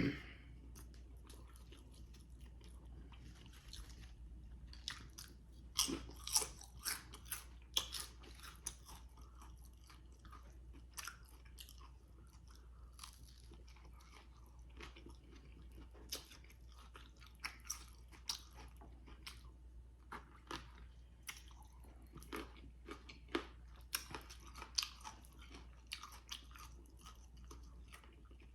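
A person chewing and crunching food, in irregular clusters of sharp crackly crunches with quieter chewing between.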